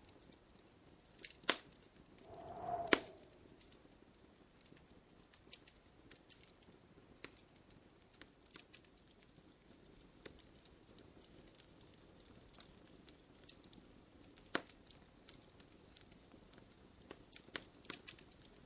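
Wood fire crackling in a fireplace: scattered sharp pops and ticks over a low hiss, the loudest two snaps about one and a half and three seconds in. A brief low hooting tone sounds about three seconds in.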